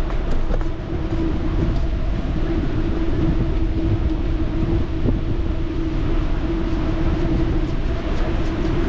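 Wind rushing over the microphone and rolling noise while riding a bicycle, a steady low rumble with a constant hum running through it.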